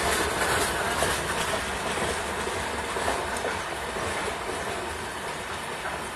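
Red LHB passenger coaches of an express train rolling past on the platform line: a steady rumble of wheels on rail with a clatter over the rail joints. It gets slightly quieter toward the end.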